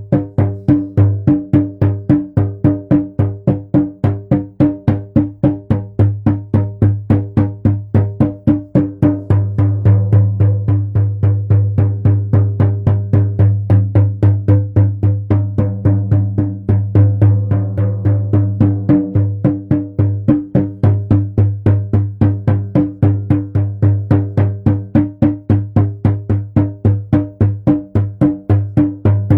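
A hand drum beaten in a steady, even rhythm of about three strokes a second, each stroke ringing with a deep tone.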